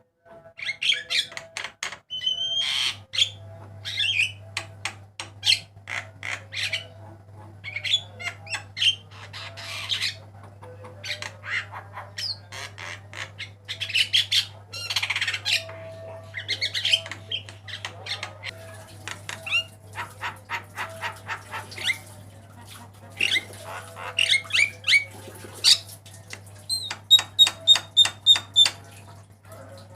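Javan myna singing a varied run of harsh squawks, clicks and whistled notes, ending in a quick series of about eight repeated high whistles. A steady low hum runs underneath.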